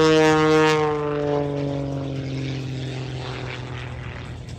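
Edge 540 aerobatic plane's 400-horsepower engine and propeller droning, its pitch sliding steadily lower as it fades.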